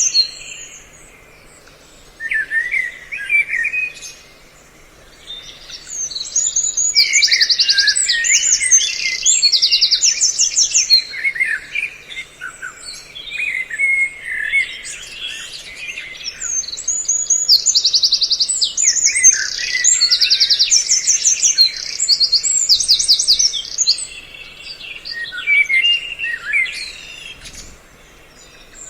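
A recording of several small songbirds mixed together, calling in overlapping bouts of fast chattering trills and sharp chirps. There are brief lulls about a second in and again near the end.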